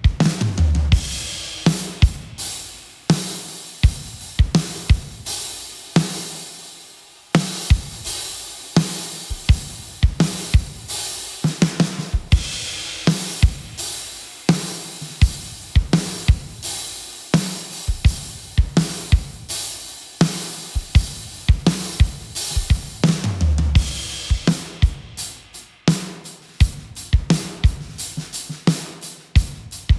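Drum kit playing a steady groove: kick drum, snare and hi-hat, with a crash cymbal opening up about every twelve seconds.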